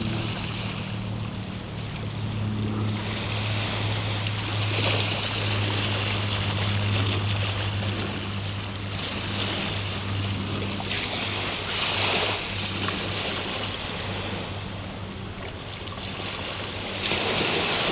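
Ocean waves breaking and washing ashore, the rush swelling and falling back every few seconds, over a steady low hum.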